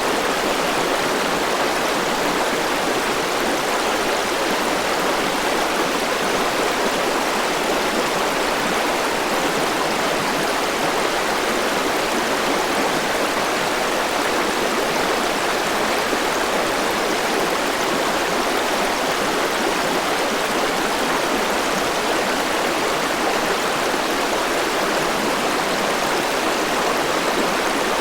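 Forest river flowing over rocks, a steady rushing with no breaks.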